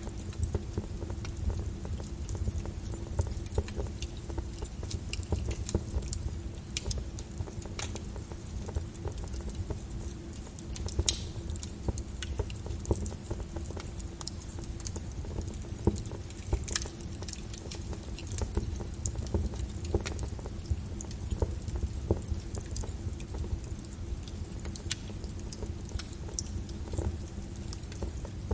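Wood fire in a fireplace crackling, with irregular sharp pops over a low steady rumble; the loudest pop comes about eleven seconds in.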